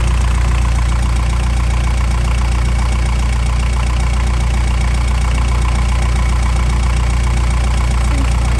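A boat's inboard engine running steadily with the engine bay's side panels off, a loud, even low hum.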